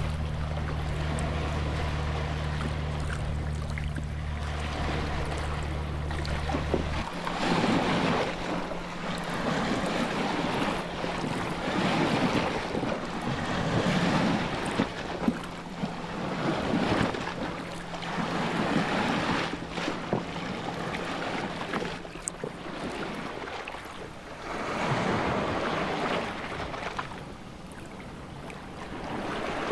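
A steady low hum that cuts off about seven seconds in, then waves washing in repeated surges that swell and fade every couple of seconds.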